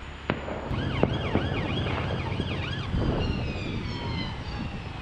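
Distant emergency-vehicle siren warbling rapidly up and down, then winding down in pitch, over a steady low rumble. A single sharp bang sounds just after the start.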